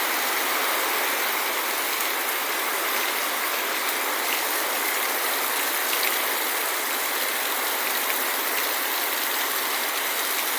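Heavy rain falling, a steady dense hiss with a few faint drop ticks.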